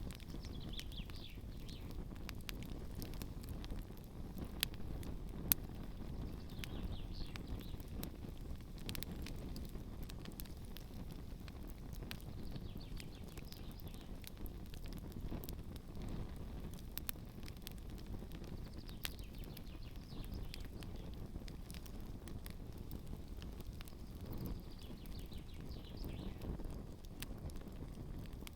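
Campfire burning with a steady low rumble and scattered crackles and pops, two sharper pops about five seconds in.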